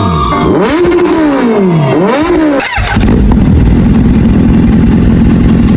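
Kawasaki Z900 inline-four engine revved in quick blips, its pitch rising and falling again and again. About three seconds in it changes suddenly to a steady low, rough rumble.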